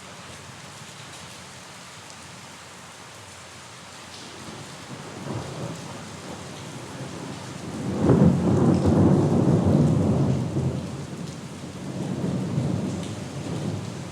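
Steady rain with thunder rolling through: a faint rumble about five seconds in, then a loud low peal that starts sharply about eight seconds in and rumbles on for a few seconds, easing into a weaker roll near the end.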